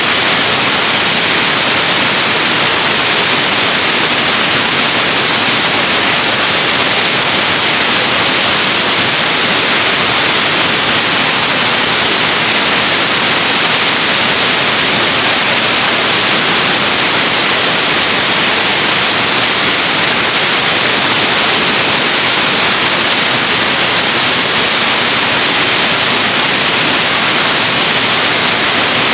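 Waterfall rushing, a loud, steady hiss of falling water that does not change.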